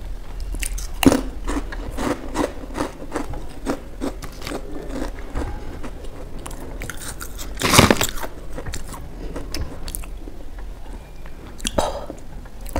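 Close-miked crunching and chewing of crispy fried snack chips: a quick run of crisp crackles, with a louder crunch about eight seconds in.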